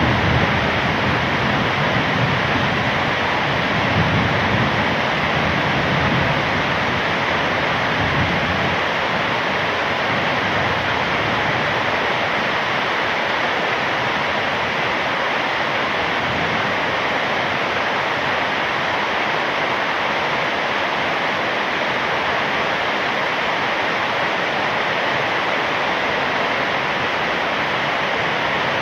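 Heavy rain falling steadily, an even hiss. A low rumble of thunder dies away during the first several seconds.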